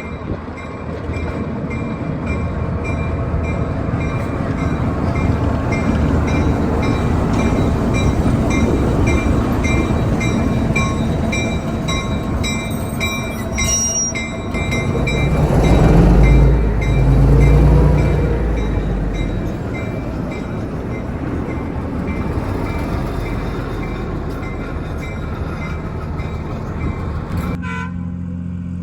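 A train passing a grade crossing with a steady rumble while the crossing bell rings in a regular repeating ding. Around the middle the locomotive horn sounds twice, low and loud.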